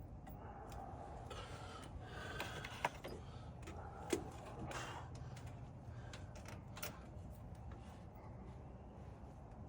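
Faint clicking and scraping of hand tools on a brake caliper's fittings, with two sharper metallic clicks about three and four seconds in, over a low steady hum.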